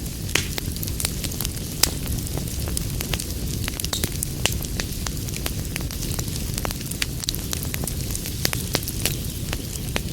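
Wood fire burning in a fireplace: a steady low rumble of flames with many irregular sharp crackles and pops, a few louder snaps among them.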